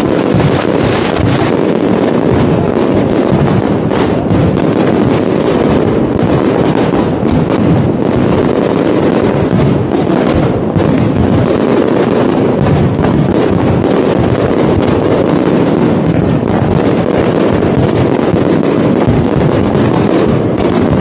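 Dense fireworks barrage: a steady rumble of shell bursts packed with many sharp pops and crackles, continuing without a break.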